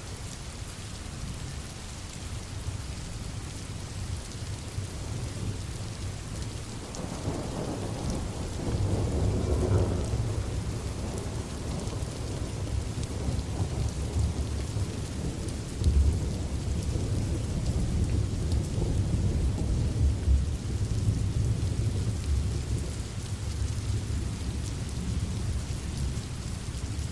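Steady rain with rolling thunder: a long, low rumble swells about a quarter of the way in and rolls on for some fifteen seconds, with one sharper clap about midway.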